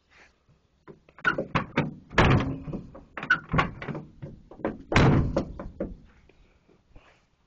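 Clunks and slams from the steel door and body panels of a 1960s Chevrolet Apache pickup. There is a run of metal knocks, loudest about two and five seconds in.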